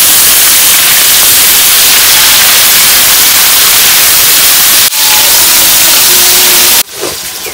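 Food frying in hot oil in a pan: a loud, steady sizzle that cuts off suddenly about a second before the end.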